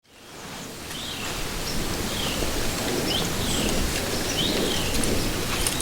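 Small birds giving short, falling chirps about once a second over a steady outdoor hiss of wind or rustling leaves, fading in at the start.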